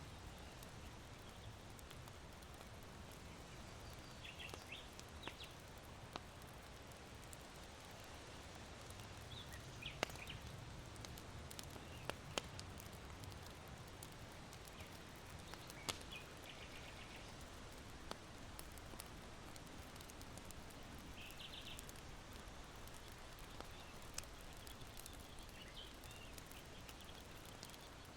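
Faint, steady wind-like hiss. Scattered sharp pops from burning charcoal in an irori hearth and several short bursts of high, quick chirps from small birds sound over it.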